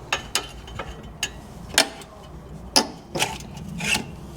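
Hand tools and bolts clicking and tapping on metal while the clutch is unbolted: a series of sharp, irregularly spaced clicks.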